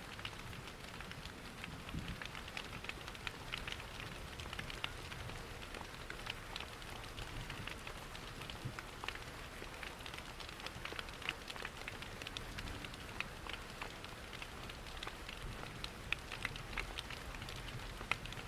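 Layered ambience of steady rain pattering, the crackle of a wood fire in a fireplace, and the low rush of a waterfall, with many small sharp ticks scattered throughout.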